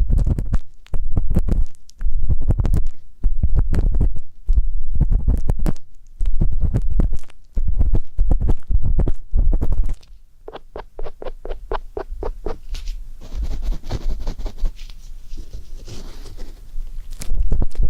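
Ear-cleaning ASMR sounds: an ear pick scraping and rubbing in slow repeated strokes, about one a second, with a heavy low rumble close to the microphone. About ten seconds in there is a quick run of light clicks, then softer rustling, and the rubbing strokes return near the end.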